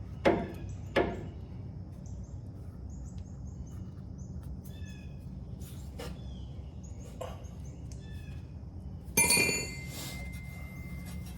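Two sharp metallic knocks near the start, a few lighter clanks, then a loud ringing metal clatter about nine seconds in, from tools and parts during work on a truck's front suspension. Small birds chirp faintly throughout over a low steady hum.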